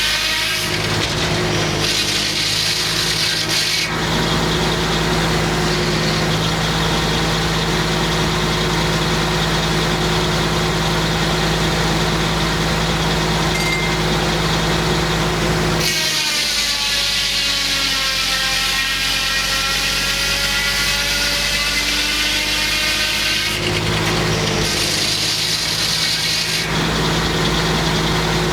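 Homemade circular sawmill sawing a large white pine log: a steady, loud machine run with the blade in the wood. Through a long stretch in the middle the pitch sags and then comes back up, as the saw slows in the cut and recovers.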